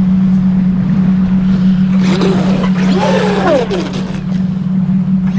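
RC speedboat's brushless motor whining, its pitch rising and falling several times as the throttle is worked, over a loud steady low hum.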